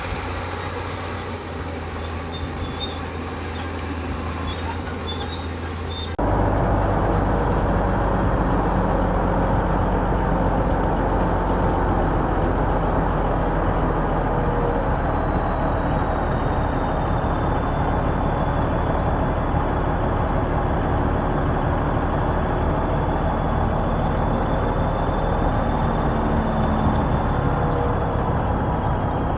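Heavy diesel earthmoving machinery running steadily. About six seconds in the sound jumps abruptly louder, and from then on a thin high whine runs over the engine, slowly falling in pitch.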